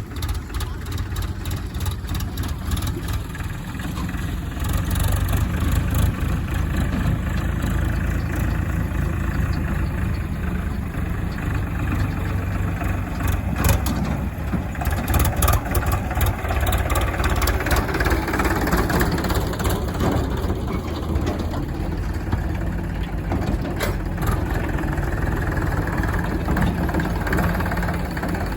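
Diesel engine of a JCB 3DX backhoe loader running steadily under working load while it loads mud, with a few sharp knocks now and then.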